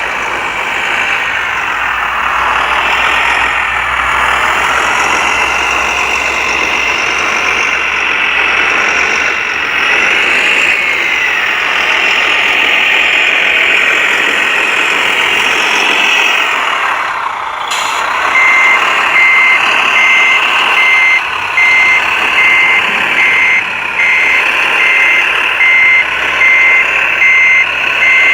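1:14-scale RC construction machine running with a whine that rises and falls in pitch as it works; about two-thirds of the way through it gives way to a reversing beeper sounding steadily, a little faster than once a second.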